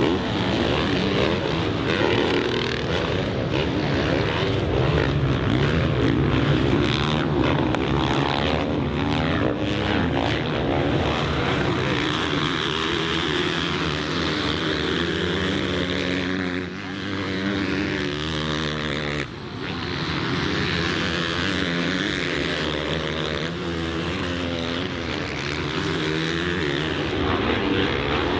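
Motocross bike engine running hard, its revs rising and falling again and again as the rider accelerates, shifts and backs off.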